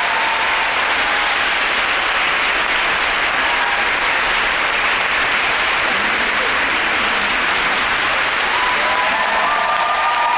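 Rink audience applauding steadily, a dense, even clapping.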